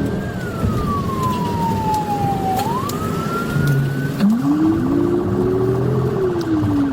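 Police car siren wailing, its pitch slowly falling and then rising again, over steady engine and road noise. About four seconds in, the high tone stops and a lower siren tone takes over, rising and then slowly falling.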